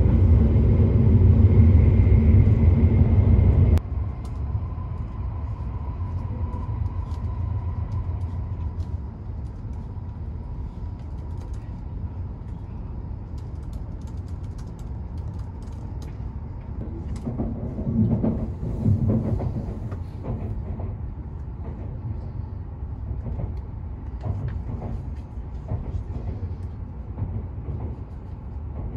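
Cabin noise of an E7/W7-series Hokuriku Shinkansen slowing as it comes into a station: a steady low rumble that drops sharply about four seconds in, then quieter rolling with a faint steady whine and scattered clicks.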